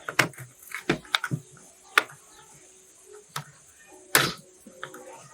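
Irregular sharp clicks and knocks of hard objects being handled, with one louder knock about four seconds in.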